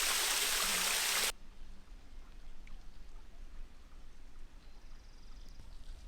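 Loud, steady hiss of rushing water that cuts off abruptly about a second in. A quiet low rumble with a few faint light knocks follows.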